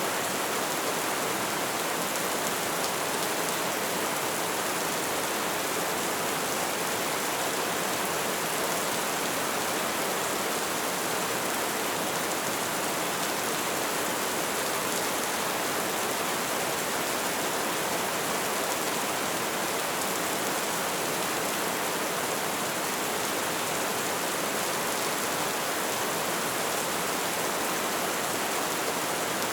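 Light rain falling steadily, an even hiss of drops without breaks or single strikes standing out.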